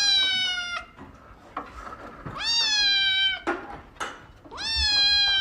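Cat meowing: long drawn-out meows, each about a second, repeating roughly every two seconds.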